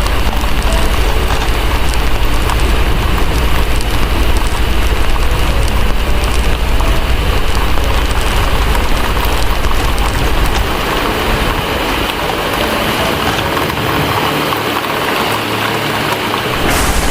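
Heavy, steady rain with a crackling fire, under a deep low rumble that fades out about ten seconds in and comes back near the end.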